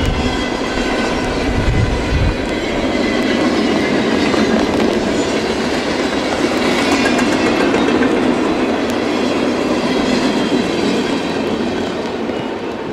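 Freight train passing close by, steel wheels running on the rails in a loud, steady wash of noise that begins to fade near the end.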